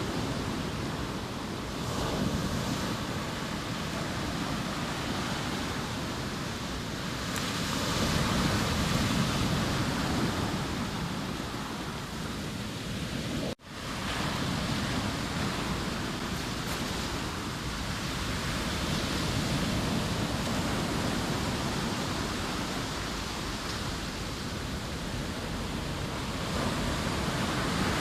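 Sea waves breaking on the shore: a continuous wash of surf that swells louder every several seconds. The sound cuts out for an instant about halfway through.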